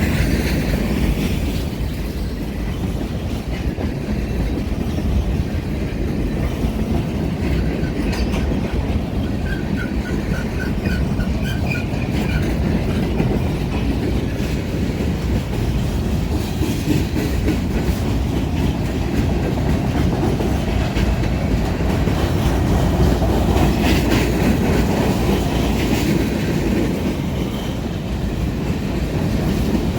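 Union Pacific manifest freight train rolling past, a steady rumble with the clickety-clack of its wheels over the rail joints.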